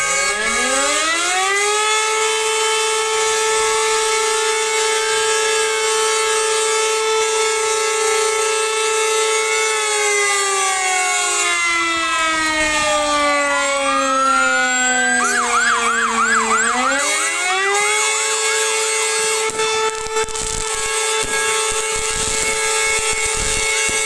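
Several fire-engine sirens sounding at once, overlapping: some wails climb and hold steady while others sweep up and down. About fifteen seconds in, one siren switches to a fast yelp for a second or so. Then a falling wail winds back up to a steady high pitch.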